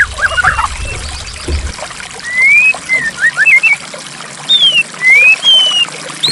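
Water flowing and trickling steadily. Over it a songbird sings a series of clear whistled notes, some rising and some falling.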